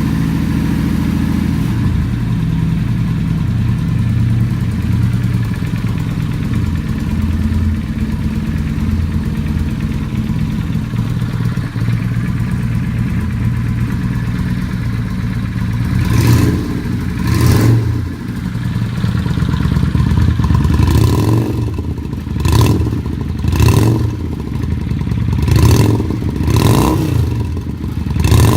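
Honda VRX400 V-twin running through its stock mufflers with the baffles removed: it idles steadily, then over the second half the throttle is blipped in a series of short, sharp revs, about eight of them.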